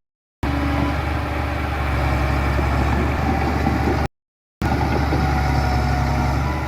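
Heavy diesel engine of earthmoving machinery running steadily at a low rumble. It breaks off into dead silence twice, briefly at the start and again about four seconds in, where the footage is cut.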